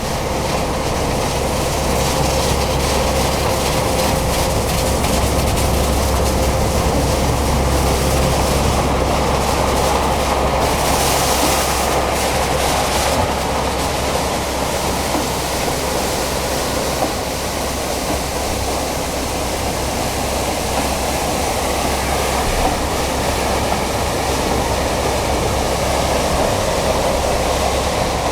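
Road sweeper truck working along the road: a steady engine rumble with a wide hiss from its sweeping, and a brief louder hiss about eleven seconds in.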